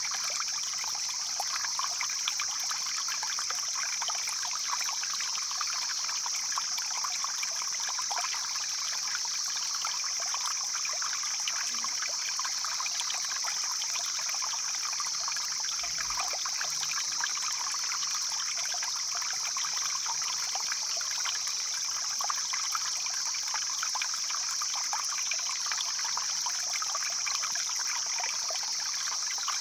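Stream flowing and trickling over rocks, a steady rushing of water with a continuous high-pitched hiss above it.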